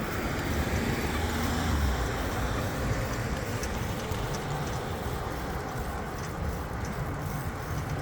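Road traffic heard while riding a bicycle along a street: a steady rush of passing car noise.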